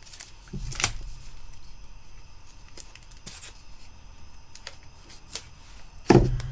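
Rustling and light clicks from a rolled diamond-painting canvas being handled, with a sharper tap a little under a second in and a loud dull thump near the end.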